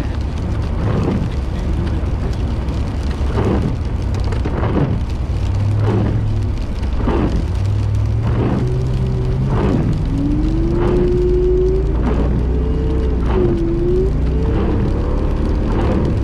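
Car engine revving harder as the driver tries to power up an icy hill, its pitch climbing steadily from about six seconds in while the tyres spin for grip. A wavering whine joins from about eight seconds, and soft knocks recur about once a second.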